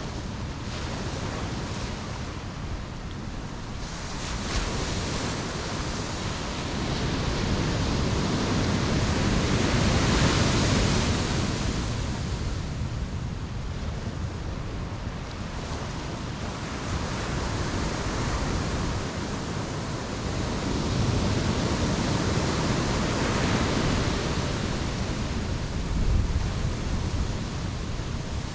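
Ocean surf washing onto the beach and drawing back in slow swells. It builds to its loudest about ten seconds in and again a little past twenty seconds, with a short low surge near the end.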